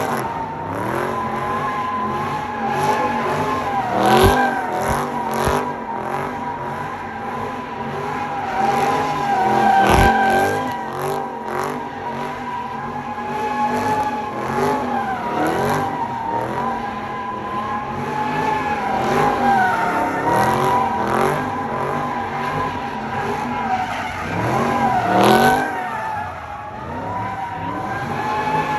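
A car spinning doughnuts: its tyres squeal in a steady, unbroken screech while the engine revs up and down again and again.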